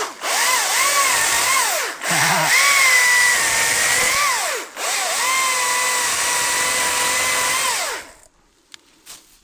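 ECHO DCS-2500T battery-powered top-handle chainsaw cutting a small tree. Its electric motor whines up in three runs with short breaks between them, and the pitch dips each time the chain bites into the wood. It winds down and stops about eight seconds in.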